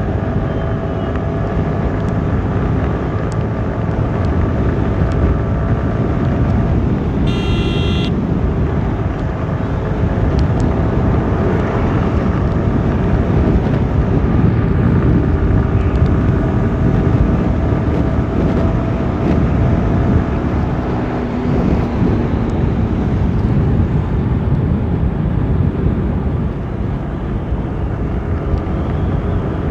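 Motorcycle riding along a road: a steady engine drone under continuous road and wind noise. A vehicle horn sounds briefly about seven and a half seconds in.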